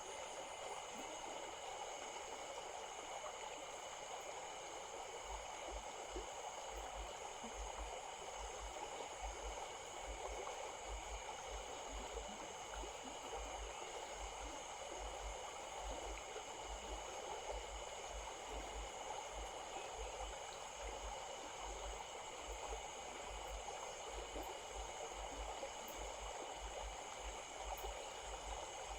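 A forest stream flowing steadily. A thin, steady high-pitched tone sits above the water.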